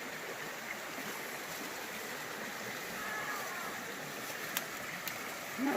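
Mountain creek running over rocks, a steady rush of water, with a couple of faint sharp clicks near the end.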